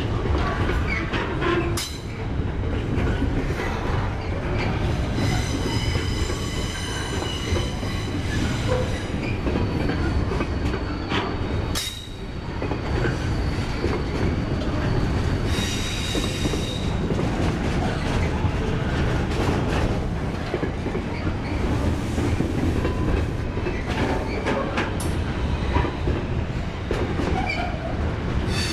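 Intermodal container freight train's wagons rolling past at close range: a steady rumble with repeated clicks of wheels over the rail joints. High-pitched wheel squeal comes in twice in the middle, the longer spell from about ten to seventeen seconds in.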